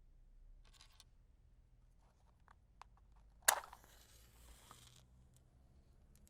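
A wooden match struck sharply on its box about three and a half seconds in, flaring up with a short hiss that lasts about a second and a half. A faint scrape and a few light clicks of handling come before it.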